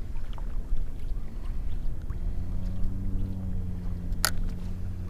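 Low rumble of wind and water around a fishing kayak. About two seconds in, a steady low hum joins it, and there is a single sharp click near the end.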